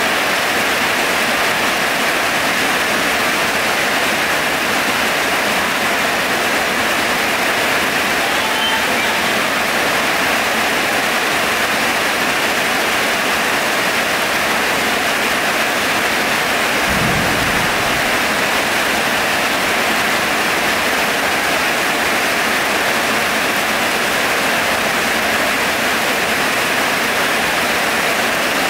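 Heavy rain pouring steadily. About two-thirds of the way in there is one brief low thump.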